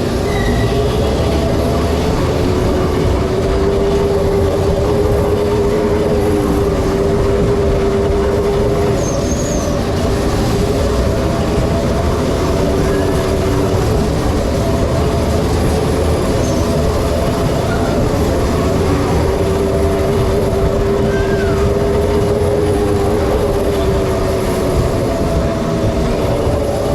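Steady running noise of a vehicle in motion: a continuous low rumble with a wavering whine held throughout.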